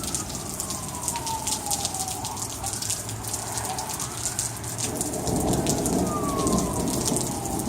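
Heavy rain pattering steadily, with a fire engine's siren wailing in slow falling and rising sweeps over it. A low rumble builds about five seconds in.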